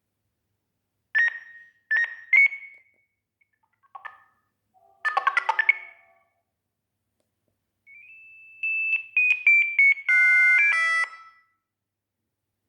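Sagem myX-1 Twin mobile phone playing short electronic tone melodies with pauses between them. First come a few single beeps, then a quick run of notes about five seconds in. A longer stepwise falling tune follows, ending in buzzy, chord-like notes.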